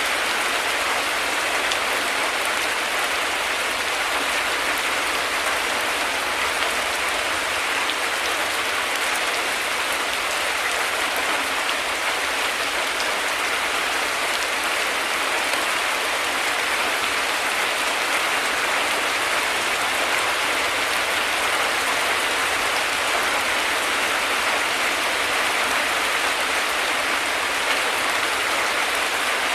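Heavy rain falling steadily: an even, unbroken hiss of rain with no thunder clap or rumble.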